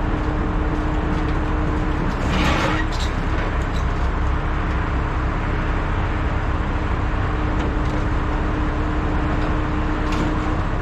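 Boom truck's engine running steadily under load while its boom lifts the sign, with a steady whine throughout. There is a brief noisy burst about two and a half seconds in.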